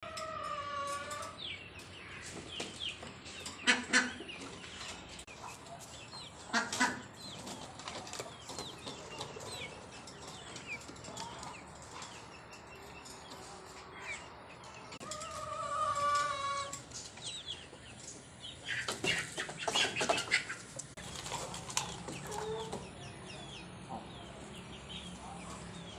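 Pet parrot calling: two held, tuneful calls, one at the start and one midway, and loud harsh squawks a few seconds in, again at about seven seconds and in a cluster later on, with many short high chirps between them.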